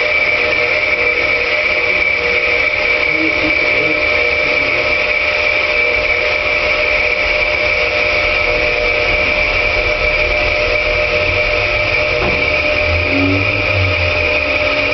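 Headman CK6130 CNC lathe running, a steady high whine over lower hum and machine noise.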